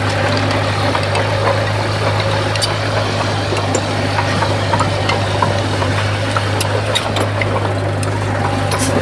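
Heavy diesel engine of earthmoving equipment running steadily with an even low drone, with scattered light clicks and rattles over it.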